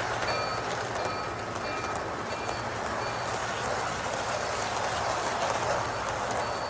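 O-gauge model train running on its track: a steady running rumble, with a faint high tone repeating at even intervals over it.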